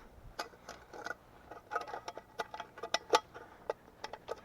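Newly caught campfire crackling: irregular sharp pops and snaps of burning wood, the loudest a little after three seconds in.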